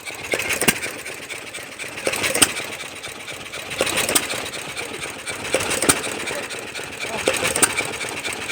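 Old hit-and-miss stationary engine running, with a sharp knock about every second and a half to two seconds and fainter clicks between them.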